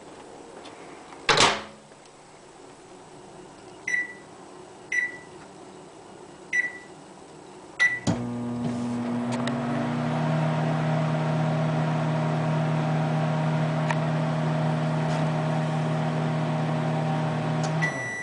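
A microwave oven: a clunk, then four short keypad beeps, then the oven starts running with a steady hum for about ten seconds before it stops and another beep sounds.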